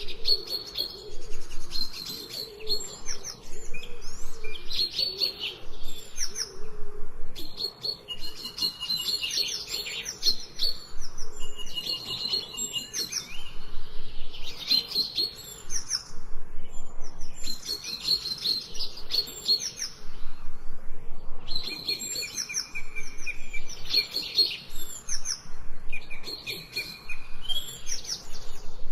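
Several songbirds chirping and singing at once, short high phrases overlapping almost without a break.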